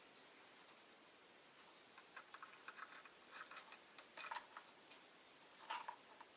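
Rosy-faced lovebird making faint, quick clicks and ticks in short clusters over a near-silent background.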